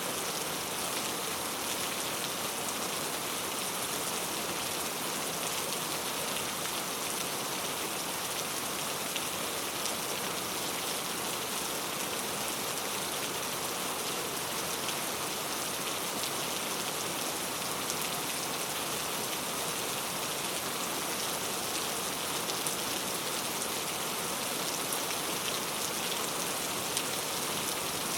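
Heavy rain falling on mango leaves: a steady, dense patter with countless separate drops ticking on the leaves.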